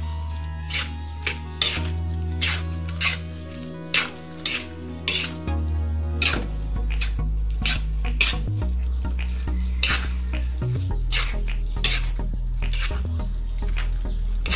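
Rice and mushrooms frying in a wok while being stirred, with repeated irregular scrapes and knocks of the utensil against the pan and a frying sizzle. Background music with a low bass line runs underneath.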